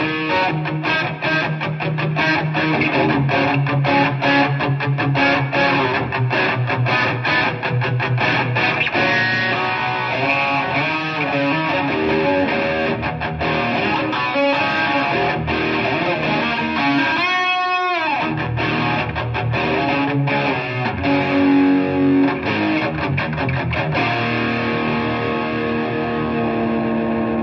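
Donner DST-100 Strat-style electric guitar played through an amp with some distortion: busy riffs and runs, a quick pitch sweep about 17 seconds in, then notes left ringing out near the end.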